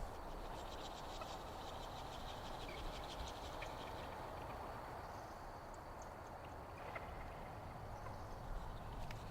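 A bird giving a rapid chattering series of short notes for the first few seconds, then a few scattered single notes, over steady background noise.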